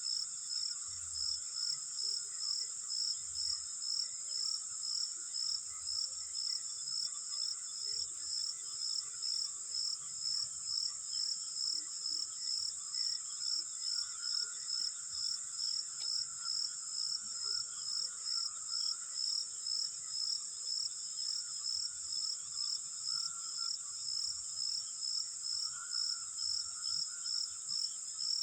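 Insects chirping: a steady high-pitched drone with a pulsing chirp repeating about twice a second.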